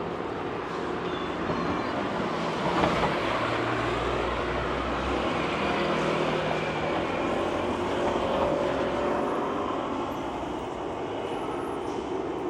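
A vehicle going by amid steady city noise, with a low engine or motor hum that swells about a third of the way in.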